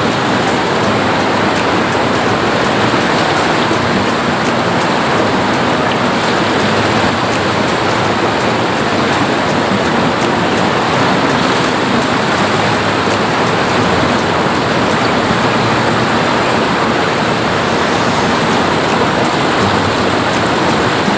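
Steady, loud rush of water pouring over a waterfall into a river, unbroken throughout.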